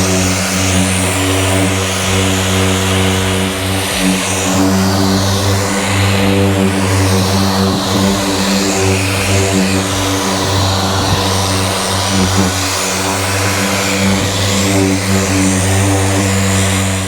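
Electric polisher running at a steady speed, applying finishing wax to the RV's paint, with an even motor hum. It cuts off abruptly near the end.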